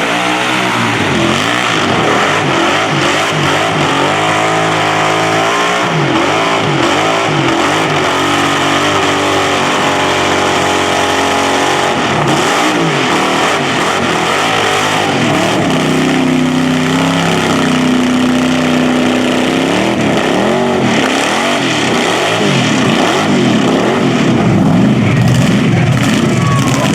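Burnout car's engine revving hard, its pitch climbing and dropping again and again and held steady for a few seconds about two-thirds of the way through.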